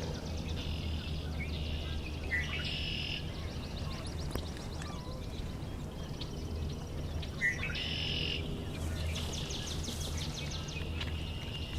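Swamp sparrows singing in a marsh: a run of even, rapid trills, one song after another, each lasting about a second, over a steady low rumble.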